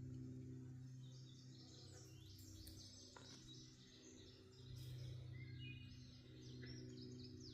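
Faint outdoor ambience: small birds chirping over a steady low hum that fades in the middle and swells again, with a single soft click about three seconds in.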